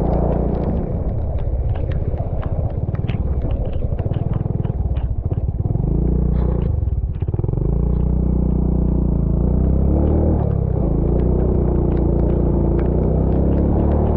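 Vehicle engine running steadily on the move, with a low rumble. The engine note dips and climbs again about halfway through, and many short clatters and knocks run over it.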